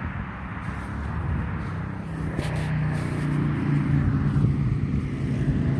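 Motor vehicle engine running with a steady low hum, growing louder in the second half as it comes closer.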